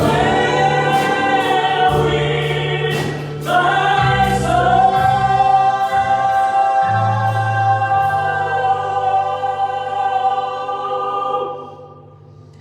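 Gospel choir singing with instrumental accompaniment and a steady bass line, closing on a long held final chord that stops shortly before the end.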